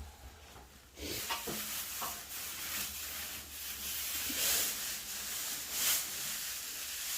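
Dry hay rustling and crackling as a tightly bound bale is pulled apart by hand, starting about a second in.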